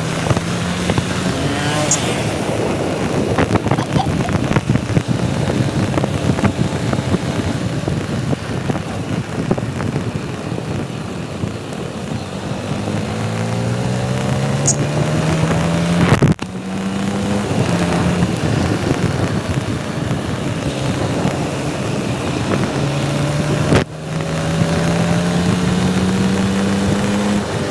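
Motorcycle engine running under way, its pitch climbing several times as it accelerates and dropping back in between, as at gear changes. The sound breaks off sharply twice in the second half.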